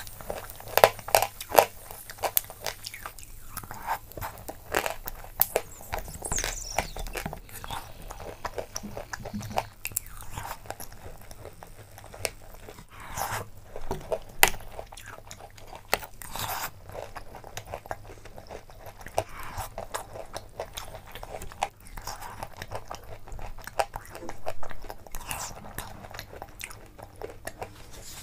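Close-miked eating: repeated crunchy chewing and biting of spoonfuls of soft, chunky food in a milky liquid, mixed with a metal spoon clicking and scraping in a glass bowl.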